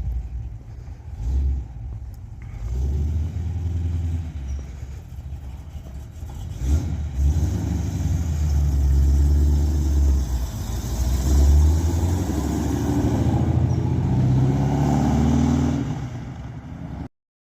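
Car engine running and being revved, a deep rumble that rises and falls several times, then cuts off abruptly near the end.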